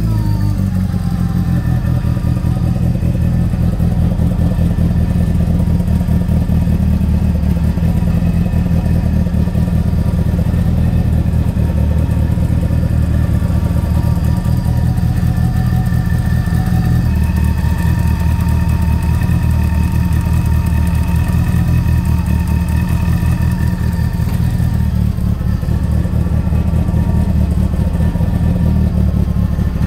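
Twincharged engine of a Toyota MR2 idling steadily, a deep even engine note with faint thin whining tones above it.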